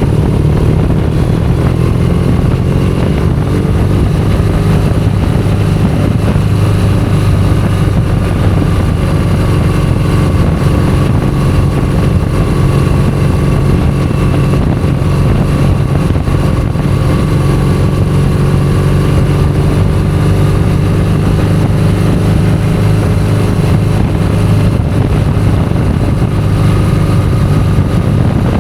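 Motorcycle engine running steadily at road speed, its pitch drifting gently up and down with the throttle, over a constant rush of wind and road noise.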